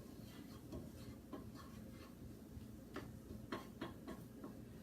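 Vegetables sautéing in a pan: faint scattered pops and ticks over a low sizzle, a few louder ticks near the middle and end.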